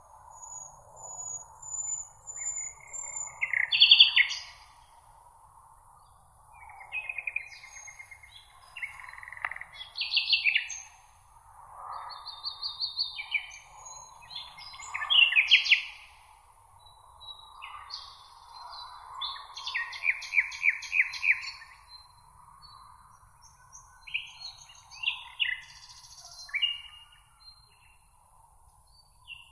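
Several songbirds singing in short, varied phrases of chirps, trills and whistles, one after another, over a faint steady hiss.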